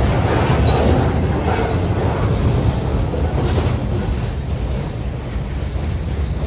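Train rolling past, a steady rumble that eases off slightly in the second half.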